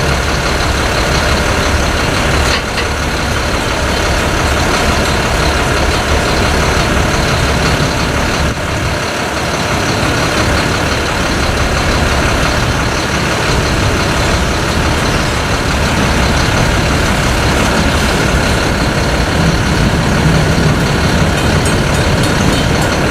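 Diesel freight locomotives running steadily, a continuous heavy engine sound with no sharp events.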